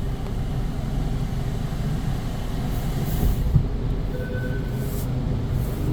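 Automatic car wash dryer blowers running: a steady low rumble of rushing air, with brief hissy gusts about three and five seconds in.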